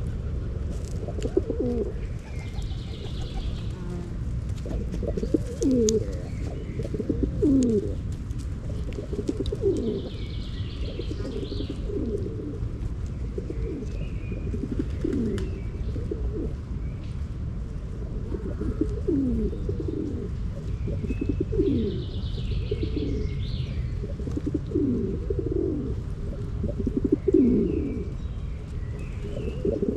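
Pigeons cooing again and again, each coo a short call dropping in pitch, over a steady low rumble, with small birds chirping now and then.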